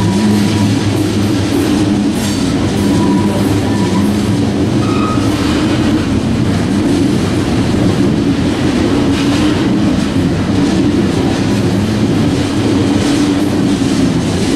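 Tank cars of a freight oil train rolling past, a steady loud rumble of steel wheels on the rails.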